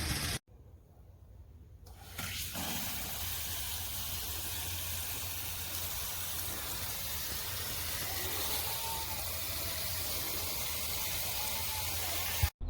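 Dramm One Touch rain wand spraying water in a steady hiss, which starts about two seconds in and cuts off suddenly with a click near the end.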